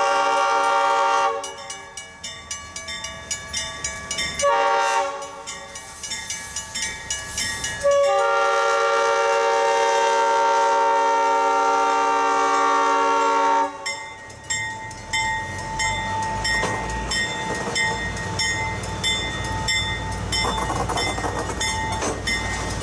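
Diesel switcher locomotive's air horn sounding the end of a grade-crossing signal: a long blast, a short one, then a long one. Then the locomotive and its passenger coaches roll past with a low engine rumble and regular wheel clicks over the rail joints, while a bell dings steadily throughout.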